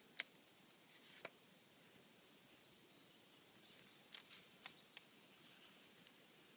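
Near silence with a few faint, short ticks as a vinyl decal is slowly peeled from its backing paper, a cluster of them a little past the middle.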